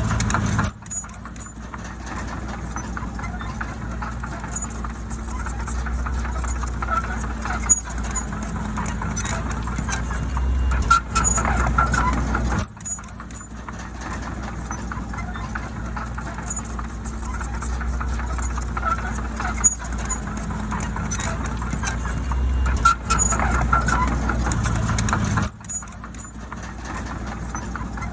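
Diesel engine of heavy earthmoving machinery running steadily under load, with scattered sharp clanks. The sound drops off suddenly about a second in, again about halfway through, and again near the end, then carries on.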